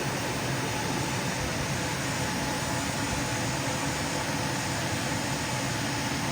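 Lapidary cabbing machine running steadily: an even motor hum under a steady hiss.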